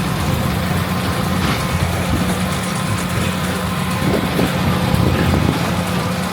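Large diesel farm machinery engine running steadily under load, a constant low hum with no break.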